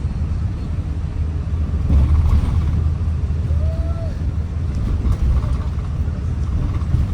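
Steady low rumble of a vehicle in motion, with a faint short tone rising and falling a few seconds in.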